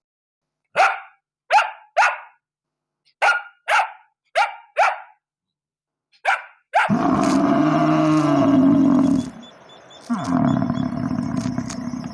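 A dog barking eight times in short, sharp barks, then two longer, lower drawn-out calls.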